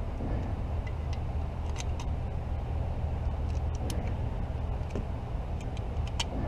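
A steady low hum with a few light clicks and ticks from handling, and no gunshots.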